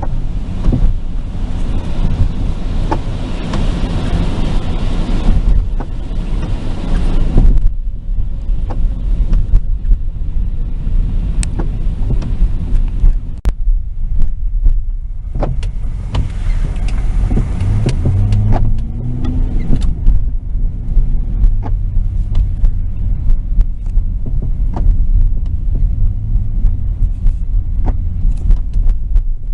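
Car road noise from inside the cabin: a steady low rumble with tyre hiss that swells and fades, likely on a rain-wet road, and the engine note rising briefly about two-thirds of the way in. A few faint clicks are scattered through.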